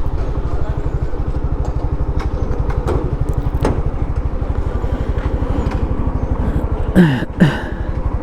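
Suzuki Gixxer's single-cylinder engine running at low revs with an even, rapid pulsing, heard from the bike. Near the end it drops away, and two short, loud sounds that fall in pitch cut in.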